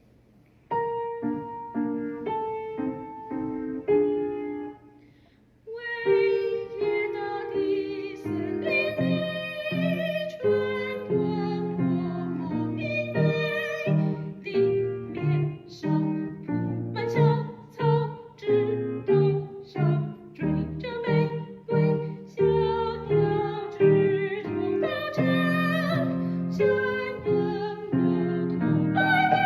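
A piano plays a short introduction of separate chords, pauses briefly, then a soprano voice sings with piano accompaniment from about six seconds in.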